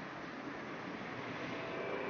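A steady rushing outdoor noise with no clear tone, slowly growing louder.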